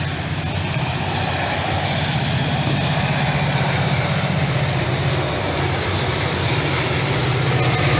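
Caltrain F40PH-2CAT diesel-electric locomotive running past, its diesel engine giving a steady, pulsing low drone that grows slightly louder.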